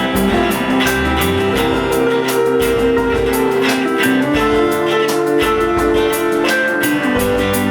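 Live rock band playing an instrumental passage: electric guitars holding chords over a steady drum beat.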